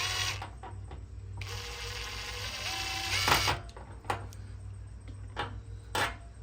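Hand work on a metal lid latch bracket while the screw holes are marked: a scratchy rustle for a couple of seconds, then several sharp clicks and knocks.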